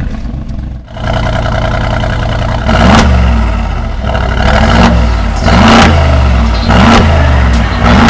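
Mercedes-AMG G63's twin-turbo V8 breathing through a full Akrapovic exhaust, running at a steady idle and then revved in a series of about five short throttle blips, each rising and falling quickly.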